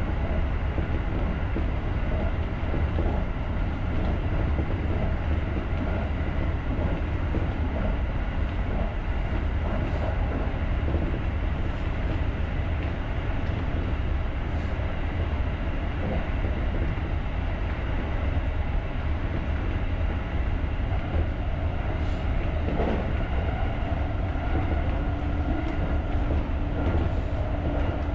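JR rapid electric commuter train running along the track, a steady low rumble of wheels on rail. A steady hum joins about 24 seconds in.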